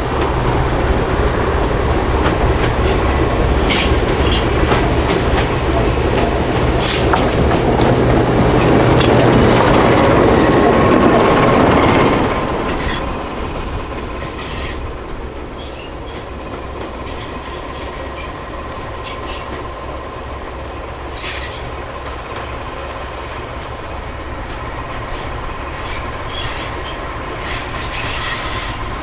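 Diesel train running past: the engine is loud at first, builds, then drops away about twelve seconds in. Wheels click over rail joints throughout, and a steady wheel squeal sets in near the ten-second mark and holds to the end.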